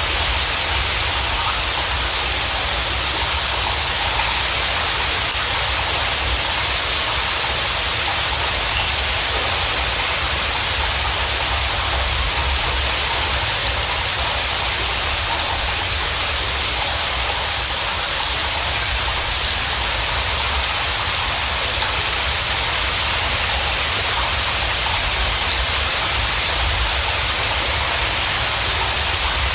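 Steady rain falling: a dense, even patter of drops with a low rumble underneath, unchanging throughout.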